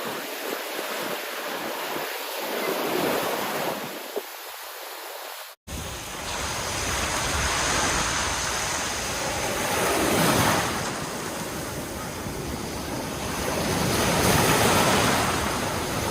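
Sea waves washing onto a beach, swelling and falling back in slow surges. After a brief cut about five and a half seconds in, wind rumbles on the microphone under the surf.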